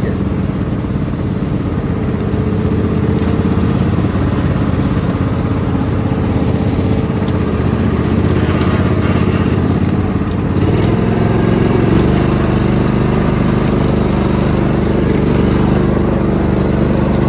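Lawn mower engine running steadily; a little past halfway its pitch and level step up, as with the throttle opening.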